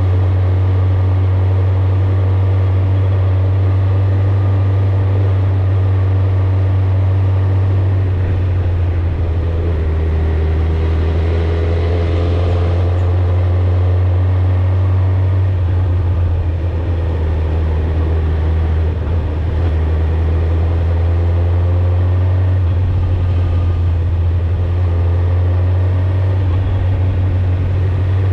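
Suzuki GSX-R1000 inline-four exhaust at a steady cruise, a constant deep drone whose pitch wavers slightly a third of the way in and again near the middle.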